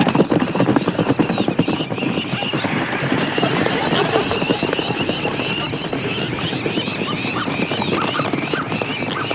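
Horses galloping, a dense clatter of hoofbeats, with whinnying. The hoofbeats are thickest in the first few seconds, and short high calls repeat through the second half.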